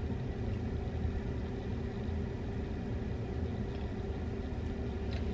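Steady low rumble of a car heard from inside its cabin, with a faint constant hum and no distinct events.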